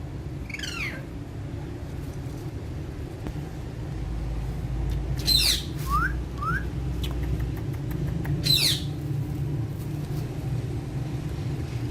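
Pet parakeets screeching: three harsh calls that sweep quickly downward in pitch, about half a second in, again around five seconds and at eight and a half seconds, with two short rising chirps in between. A steady low hum runs underneath.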